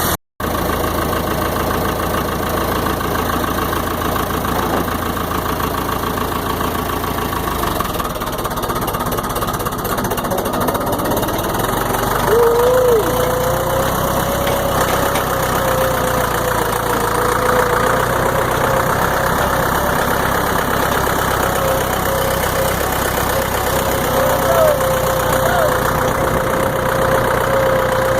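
Tractor engine running steadily as the tractor is driven, with a brief dropout just after the start. About twelve seconds in, a steady whine comes in and holds.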